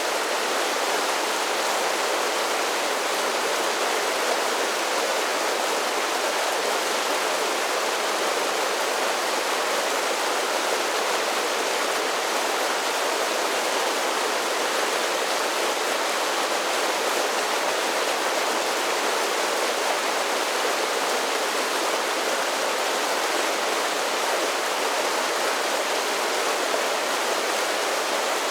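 Mountain creek spilling down a series of small waterfalls, a steady, unbroken rush of water with little deep rumble.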